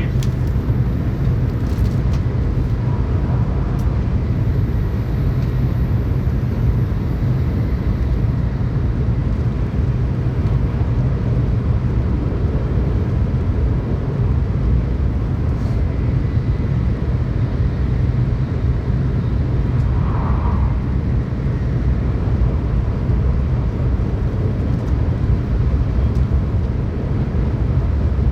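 Shinkansen bullet train running at speed, heard from inside the passenger cabin: a steady, even low rumble of running noise.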